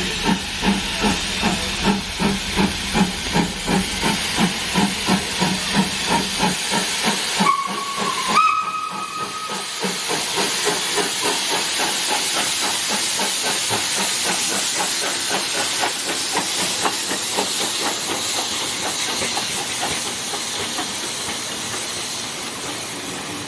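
Steam locomotive working, its exhaust chuffing at about three to four beats a second, with a short whistle blast about eight seconds in. The chuffs then soften into a steady hiss of steam that fades slowly near the end.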